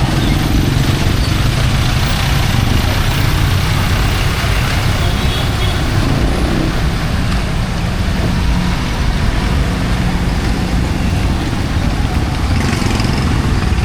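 City street traffic: vehicle engines running nearby over a steady hiss that fits heavy rain.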